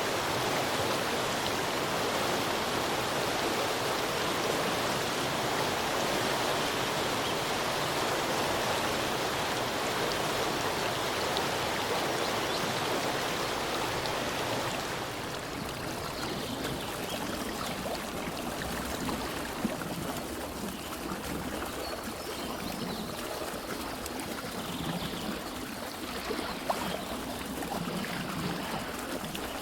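Steady rushing water, such as a stream or heavy rain. About halfway through it gives way to a quieter, uneven flow of water with low gurgles and a few drips.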